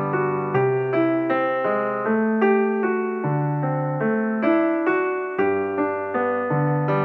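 Background music: a piano or electric piano playing a gentle, repeating pattern of notes over a low bass line.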